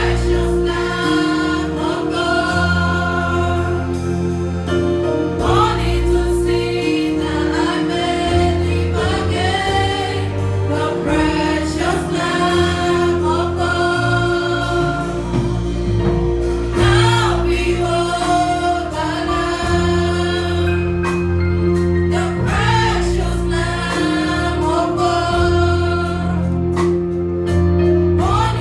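A choir singing a gospel-style song with sustained keyboard chords and a bass line under it.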